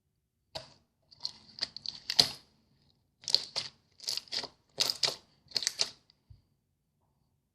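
Clear slime with clam-shell charms being squished and stretched by hand, giving sticky crackles and pops in several short bursts with brief pauses between.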